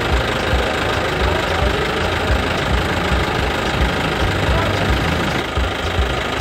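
Engine running steadily with a low, uneven knocking beat, the chugging of a tractor-type engine.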